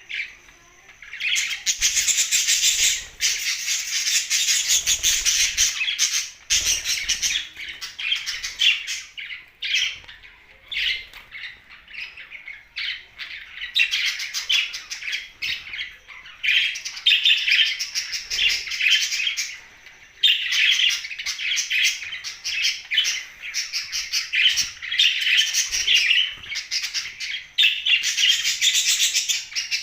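A group of pet budgerigars chattering and chirping in busy bouts of a few seconds, broken by short pauses.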